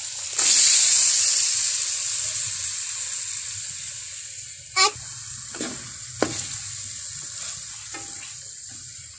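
Chicken and potato filling sizzling in a frying pan as it is stirred. The sizzle surges about half a second in and slowly dies down, with a few short sharp clinks in the second half.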